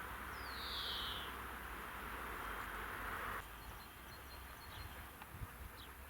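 Outdoor ambience with one whistled bird call about half a second in, a steady hiss that cuts off abruptly partway through, then faint, scattered bird chirps.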